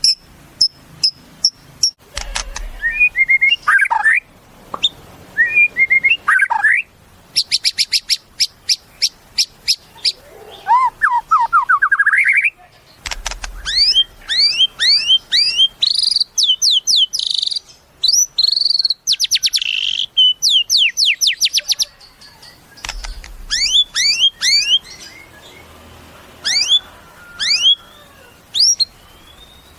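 White-rumped shama (murai batu) singing a long, varied song of rapid repeated notes, fast trills and sweeping whistles, with a faint low thud about every ten seconds.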